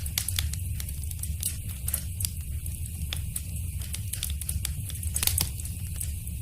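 Wood fire crackling in a fireplace: irregular sharp pops and snaps over a steady low rumble of the flames, with one louder cluster of pops a little past the five-second mark.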